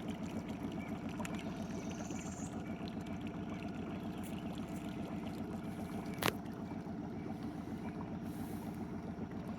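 A small boat's outboard motor running steadily at low speed, with one sharp knock about six seconds in.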